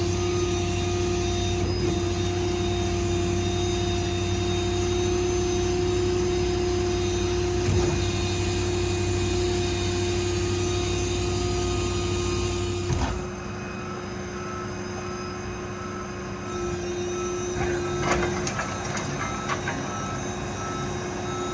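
Truck's diesel engine and crane hydraulic pump running under crane operation with a steady whine, dropping off abruptly about thirteen seconds in. Later an evenly repeating beep starts, with a few clicks.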